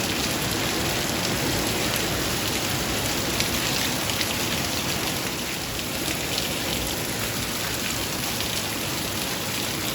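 Heavy rain pouring down steadily, a dense even hiss of falling water with scattered drop splashes, easing slightly toward the end.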